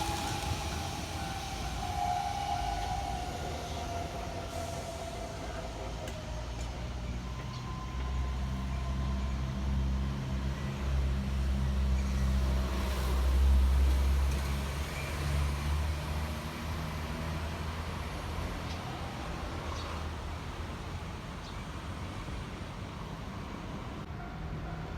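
Keihan electric train passing and pulling away, its motor whine falling in pitch and fading in the first few seconds. Then a low vehicle rumble swells from about 8 seconds in, loudest a little past the middle, and eases back to a steady low hum.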